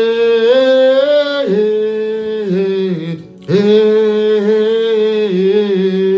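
A voice singing long held, wordless notes a cappella, in two phrases with a short break about halfway.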